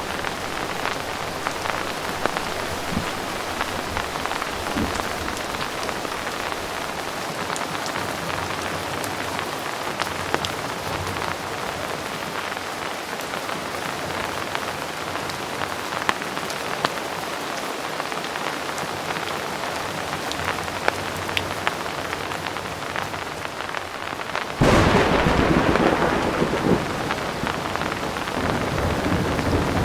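Heavy rain falling steadily, with scattered close drops ticking through the hiss. Near the end a loud clap of thunder breaks in suddenly and rumbles on for a few seconds.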